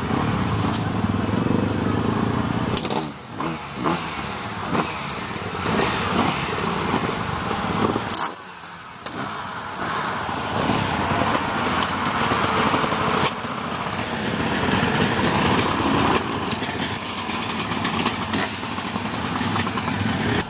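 Motocross sidecar outfits' engines running and revving, their sound rising and falling, with a short lull about eight seconds in.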